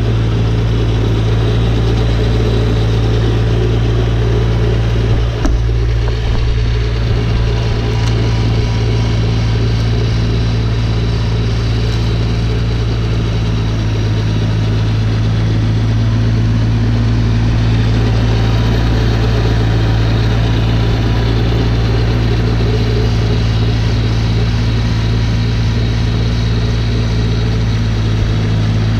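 Snowblower engine running steadily at a constant speed while it clears snow, with an even hum that does not change pitch.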